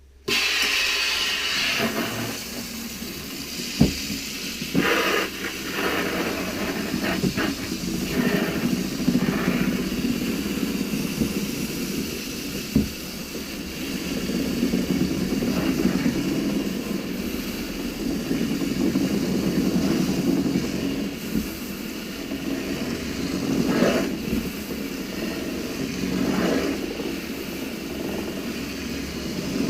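Storch Tornado paint roller cleaner running on hose water: a steady rush of water and the roller whirring as it spins in the housing, washing out the paint and spinning the roller dry. It starts suddenly right at the beginning, with a few knocks along the way.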